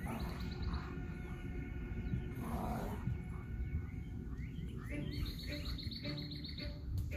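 Songbirds chirping in rapid trilled runs, a short run near the start and a longer one about five seconds in, with a lower note repeating about four times a second toward the end. A brief noisy burst comes about two and a half seconds in.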